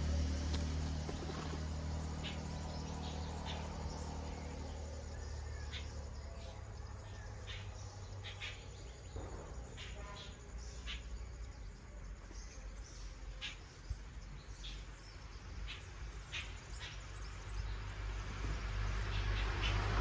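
Birds giving short, sharp chirps and calls at irregular intervals, over a low vehicle engine hum that fades out in the first few seconds and grows again near the end.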